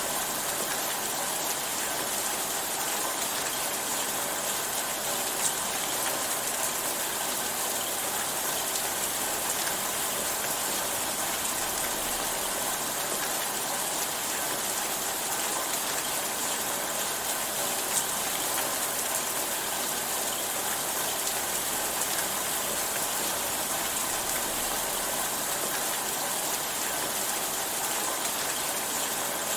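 Steady rainfall, an even hiss of rain with a few sharper drop ticks, about 5 and 18 seconds in.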